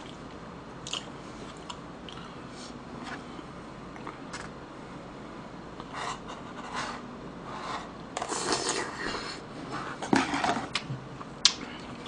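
Close-miked eating: chewing of stir-fried pork, with chopsticks clicking against a plastic container. Two louder, noisier stretches come about eight and ten seconds in, and a sharp click near the end.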